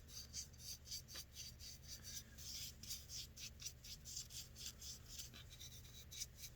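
Shellac being scrubbed onto the edge of a turned wooden lid, faint quick rhythmic rubbing strokes at about three a second.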